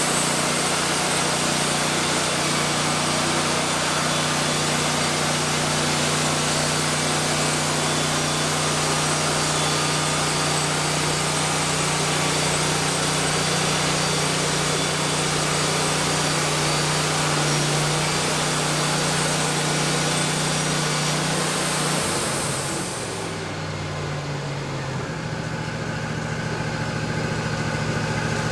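Wood-Mizer LT40 band sawmill running steadily, its engine note under a loud hiss from the band saw. About three-quarters of the way through, the hiss cuts off and the engine note drops, then settles to a steady run.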